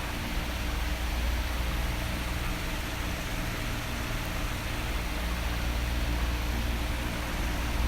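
Electric fan running, a steady hiss of moving air with a faint hum. A heavy low rumble of air fades out at the start and comes back near the end.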